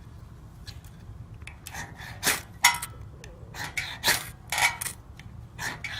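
Flint or ferro-rod fire starter being struck, about eight quick, sharp metal-on-metal scrapes in uneven bursts, trying to throw sparks into tinder.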